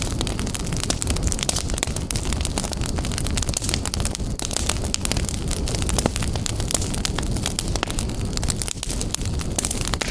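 Wood fire burning in a fireplace, with a constant stream of irregular sharp crackles and pops over a steady low rumble.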